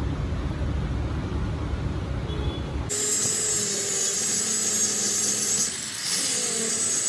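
Workshop machinery noise: a low rumble for about three seconds, then abruptly a high, hissing whine with steady tones, like a power tool working metal.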